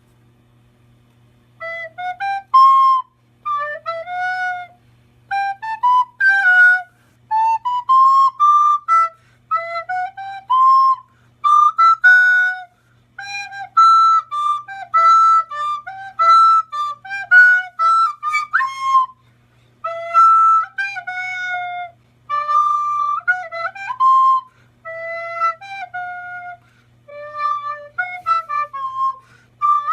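A flute-like woodwind melody played in quick phrases of short notes and runs, with brief pauses between phrases, over a faint steady low hum.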